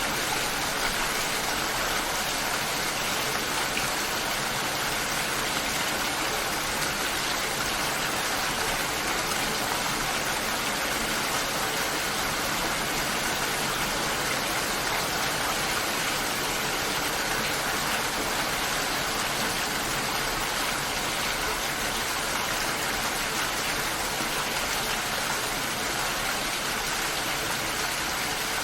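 Steady rain falling, an even, unbroken hiss of drops with no thunder or other events.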